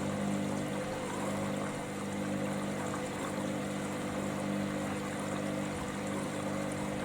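Hoover Dynamicnext washing machine filling for its final rinse: water rushes steadily in through the detergent drawer, flushing in the fabric conditioner, over a steady low hum.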